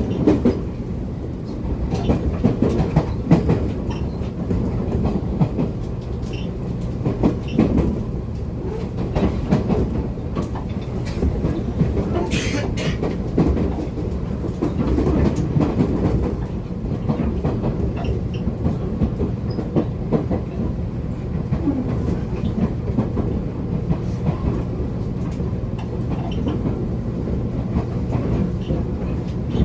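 Running noise inside the motor car of a JR Kyushu 811 series electric train at steady speed: a steady low hum from the motors and gearing, with wheels clicking over rail joints. A brief hiss comes about twelve seconds in.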